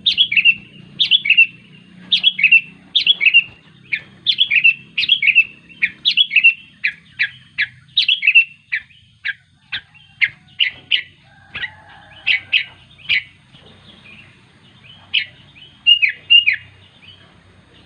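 Sooty-headed bulbul (kutilang) calling to others of its kind: quick runs of short, falling chirps, roughly one run a second, thinning to single notes with short pauses in the second half.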